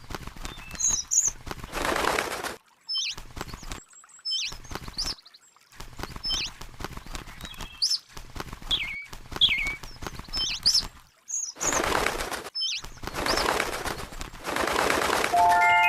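A bird chirping in short, quick calls, broken up by several longer bursts of rustling noise. A chime with several ringing tones starts right at the end.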